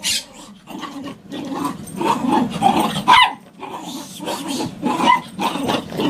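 A dog growling and whining, with a rising squeal about three seconds in.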